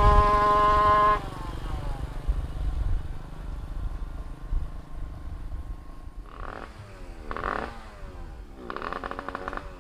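Tuned Suzuki Fiz R two-stroke engine, bored out to 116cc, held at high revs, then let off about a second in and dropping back to a low idle. Near the end it is blipped up and back down three or four times.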